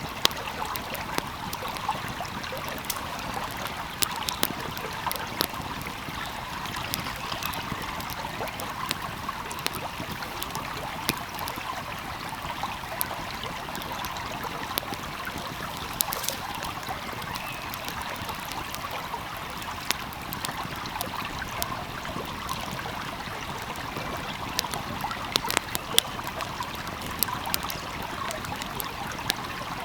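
A flowing stream with a steady rush, and a wood fire crackling over it with irregular sharp pops, a few of them louder than the rest.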